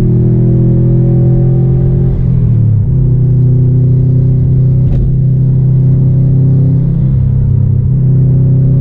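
Subaru WRX STI's turbocharged flat-four engine heard from inside the cabin while driving. Its note climbs slowly, dips briefly about two seconds in, then holds fairly steady.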